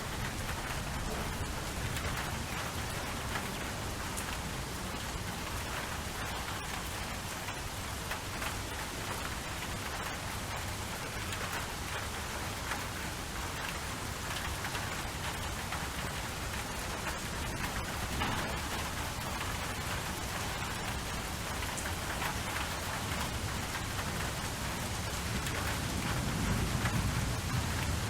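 Steady rain falling and pattering on a surface. A low rumble swells near the end.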